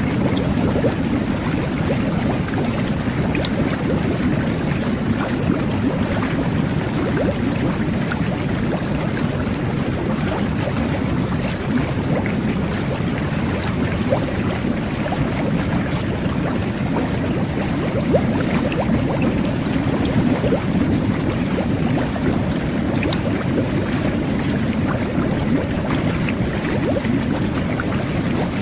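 Jet bath (whirlpool tub) running, its jets churning the bathwater into a steady, deep rush of bubbling water.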